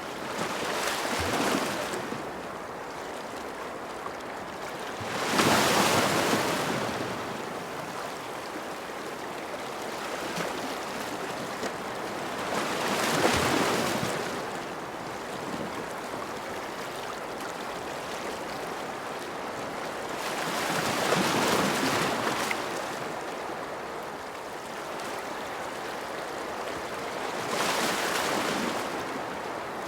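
Ocean waves washing onto a shore: a steady hiss of surf that swells into about five louder breakers, one every six to eight seconds.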